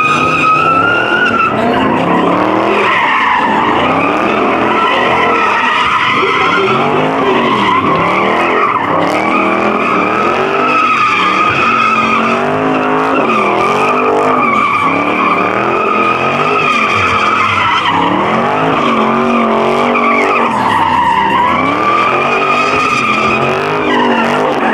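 Car doing a burnout: the tyres screech without a break while the engine revs rise and fall over and over, every second or two.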